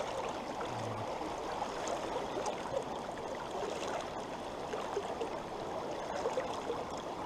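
Small, fast mountain stream running over rocks: a steady rush of water with no other sound standing out.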